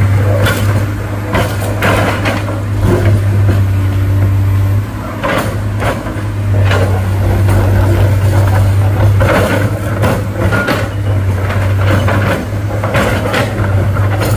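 Heavy vehicle engine running steadily, with repeated knocks and clanks over it. The hum drops out briefly about five seconds in.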